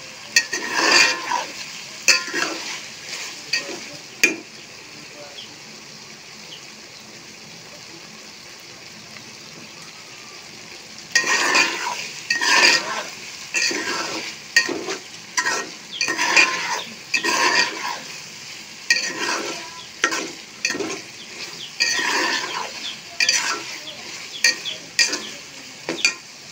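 Peas and potato cubes sizzling as they fry in a metal pot for matar pulao, with a steel spoon scraping round the pot in repeated stirring strokes. The stirring stops for several seconds near the middle, leaving only the steady sizzle, then resumes.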